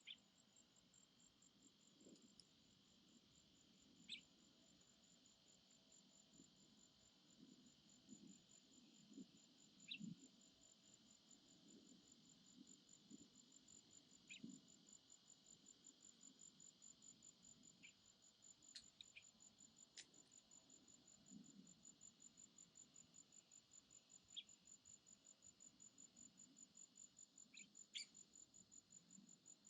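Faint forest insect chorus: a steady, high, rapidly pulsing chirp with a hiss of other insects beneath it. A few short, sharp chirps come every few seconds.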